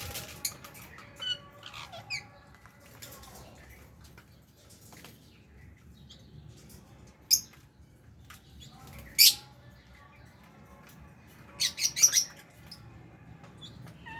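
Small aviary parrots, lovebirds and budgies, giving scattered short shrill calls and chirps. The loudest single calls come about seven and nine seconds in, and a quick run of several calls comes near the end.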